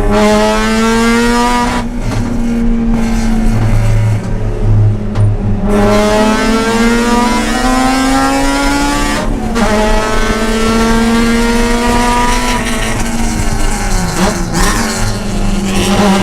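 Mazda RX-8's two-rotor Renesis rotary engine at racing speed on track. Its pitch climbs steadily under acceleration, then falls back sharply a few times at gear changes or lifts.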